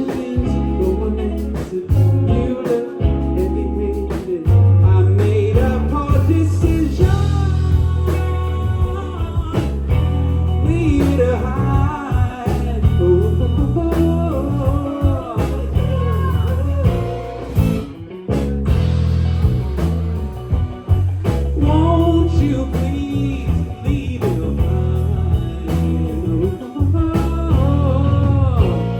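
Live rock band playing a song: electric guitar, bass and drums, with a voice singing over them.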